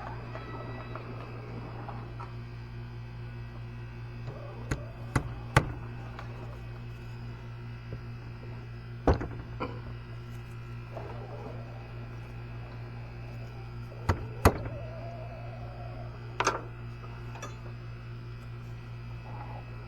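Hand tools knocking and clinking against metal during ATV engine repair: a handful of sharp, separate knocks, some in quick pairs, over a steady low hum.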